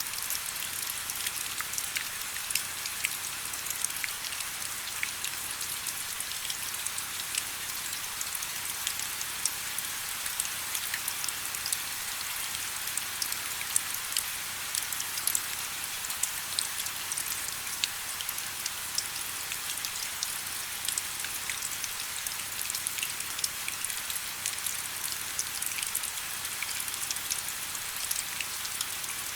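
Steady rain falling: a constant hiss with many small, sharp drop impacts scattered through it, mostly high in pitch with little low rumble.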